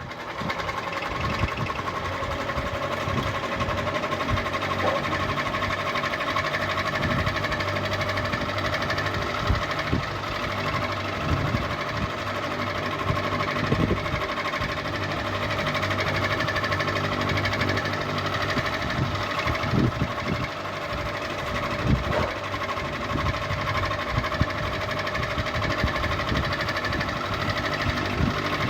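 Ceiling fan running: a steady motor hum with scattered light knocks.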